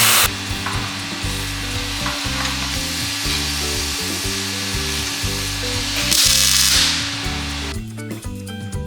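Metalworking tool noise over background music with a stepping bass line: a steady crackling hiss, with a louder hissing burst lasting under a second about six seconds in.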